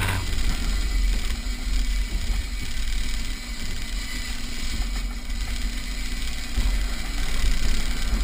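Off-road 4x4's engine running steadily as it climbs a rough dirt track, heard as a continuous low rumble.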